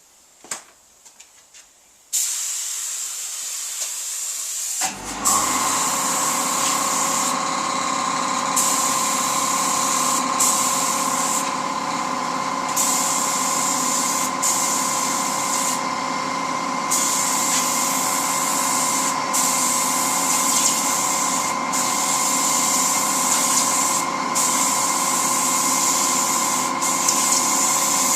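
Spray gun hissing as lacquer is sprayed, in passes broken by short gaps where the trigger is let off. About five seconds in, an air compressor starts and runs steadily with a hum underneath.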